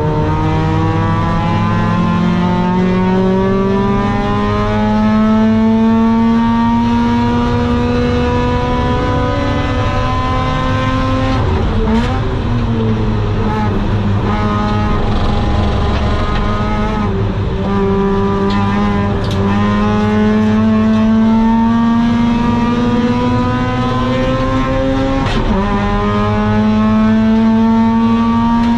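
Mazda RX-8's two-rotor Wankel rotary engine at full throttle on track, its note climbing steadily through the revs. Three upshifts break and drop the pitch, about twelve seconds in, about seven seconds later and near the end.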